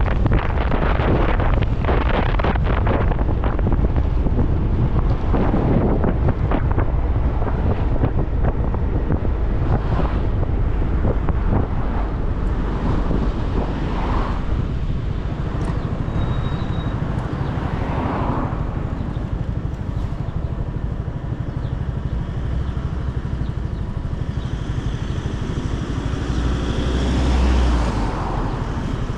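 Motorcycle running on the road while being ridden, with wind rushing over the microphone and traffic noise. There are a few brief swells, the loudest near the end.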